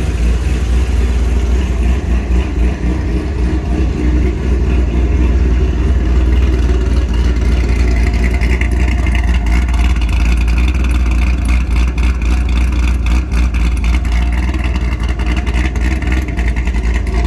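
2006 Chevrolet Corvette's 6.0-litre LS2 V8, with an aftermarket cam, headers and a Corsa exhaust, running steadily. The motor itself is quiet, with no noises beyond the exhaust note.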